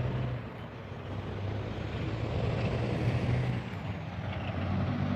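A motor vehicle running past, a low engine hum under road noise that swells about midway and then eases off.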